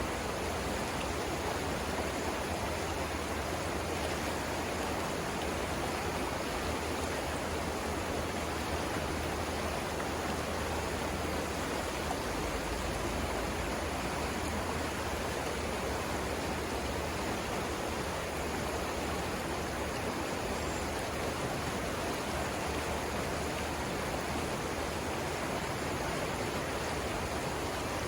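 The Savannah River's flowing water, a steady, unchanging rush.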